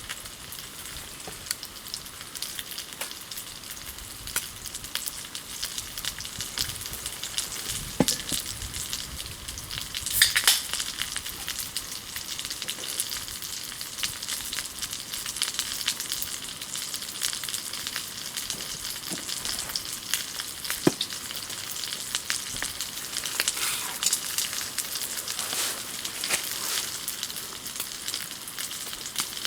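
Food sizzling in a pan over a campfire: a steady hiss with many small crackles and pops, a couple of them louder, about a third of the way in.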